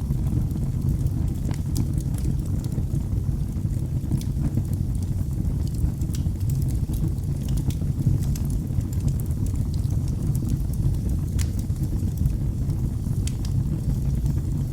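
Fireplace fire burning with a steady low rumble and irregular sharp crackles and pops scattered throughout.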